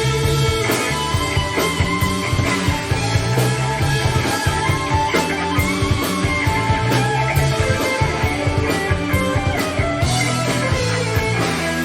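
Live rock band playing: electric guitar over bass guitar and a drum kit keeping a steady beat.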